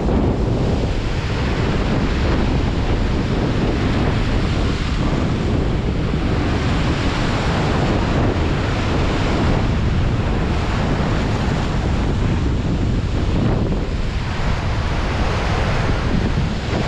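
Big sea waves breaking and washing up the beach, the surf swelling and easing every few seconds, with wind rumbling on the microphone.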